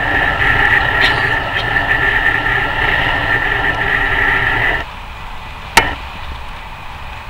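Thalys high-speed train running at speed, heard from inside the carriage: a steady rushing noise with a high whine. About five seconds in the noise drops abruptly to a quieter rush, and a sharp click follows about a second later.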